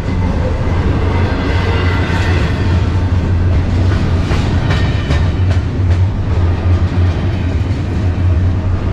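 Double-stack intermodal container cars of a fast freight train rolling past: steady, loud wheel-on-rail noise with a low rumble and a run of sharp wheel clicks over rail joints about halfway through.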